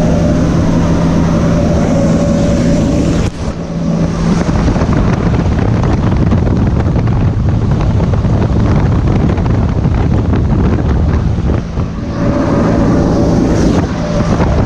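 Cessna 206T engine and propeller droning steadily, mixed with heavy wind rush. About three seconds in, the steady hum gives way to a loud, rough rushing of wind, and the hum comes back about twelve seconds in.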